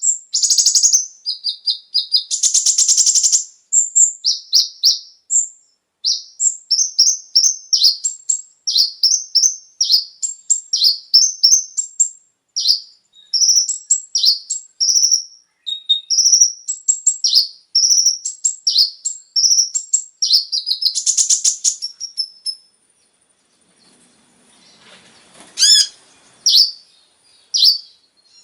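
Kolibri ninja (konin) sunbird singing a fast, high-pitched chattering song of quick falling chirps in dense runs, with two brief buzzy trills, about 3 and 21 seconds in. The song pauses briefly near the end before a few more notes.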